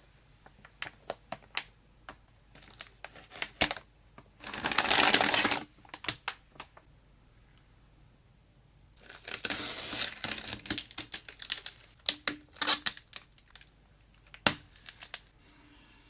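Plastic packaging crinkling while being handled, in two longer bursts with scattered sharp clicks and taps between them.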